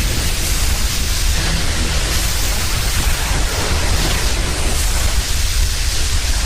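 Steady, loud rushing noise spread evenly from low to high, with a heavy deep rumble underneath and no distinct events or breaks.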